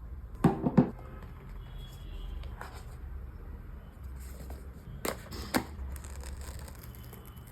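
Google Pixel 8a retail packaging being handled: a quick cluster of three taps and clicks about half a second in, soft rustling and handling, then two sharper clicks about five seconds in.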